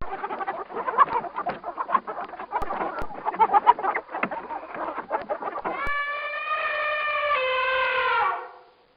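Chickens clucking with many short, overlapping calls, then about six seconds in a rooster crows once, a long call that drops in pitch at the end.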